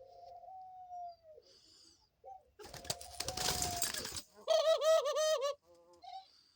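Pet dove cooing: a long gliding note near the start, then, after a short noisy rustle, a louder coo pulsing several times a second just past halfway.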